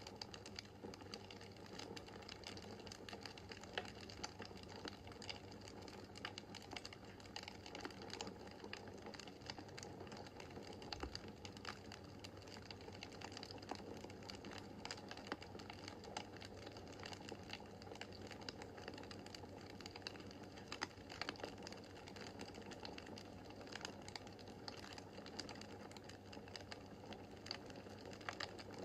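Wood fire crackling in a fireplace: frequent small, irregular snaps and pops over a steady low hiss.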